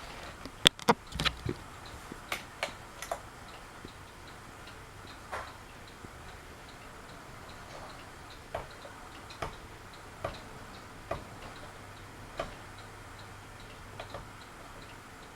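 Harbor Breeze Builder's Best ceiling fan turning on low, the only speed that still works, a fault the owner puts down to a bad capacitor. It gives a light, even ticking about three times a second, with sharper clicks about a second in and then roughly once a second.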